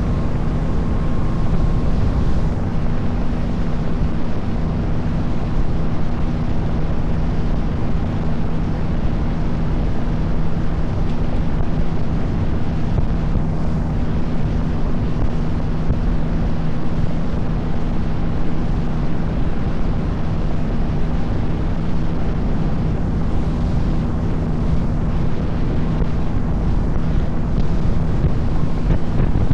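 Boat engine running steadily under way, with a constant low hum and wind blowing on the microphone.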